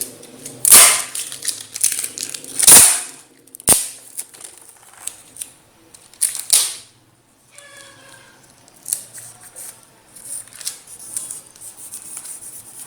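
Packing tape being pulled off the roll and torn in several loud, sudden ripping strokes, with a sharp snap and quieter crackles and rustles of tape handling between them.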